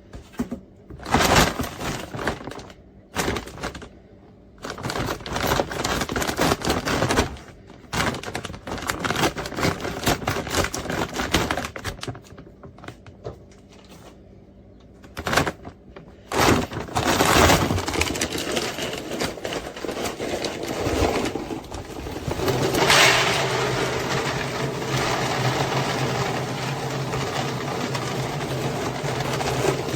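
Hard plastic clattering and knocking in separate bursts as the airtight pet food container and its scooper are handled. From about halfway there is a long continuous rattling rush, dry dog kibble being poured into the container.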